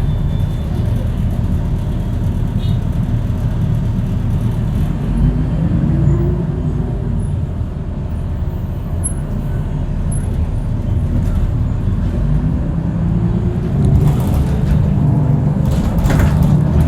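Loud, steady low rumble of passing vehicles, with an engine note rising twice, around five and again around thirteen seconds in, and a couple of sharp clacks near the end.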